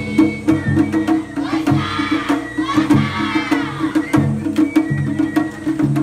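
Japanese festival hayashi music from a float: fast, steady taiko drumming with a high melody line played over it.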